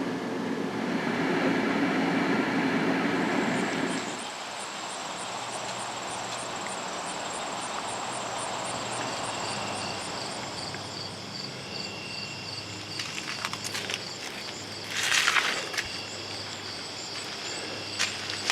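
Insects chirping in a steady rural ambience, with two rhythmic high-pitched trills at different pitches, each repeating a few times a second. Music stops about four seconds in. A brief loud rustle comes near the three-quarter mark.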